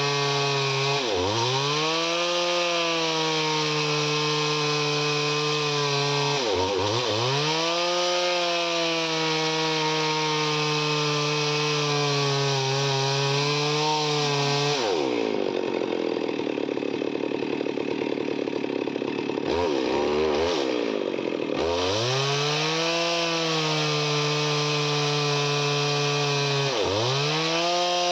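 Chainsaw running at high revs as it cuts wood. Its pitch drops sharply and climbs back about five times as the chain is loaded. In the middle, a stretch of about six seconds has the engine pulled lower and sounding rougher through a longer cut.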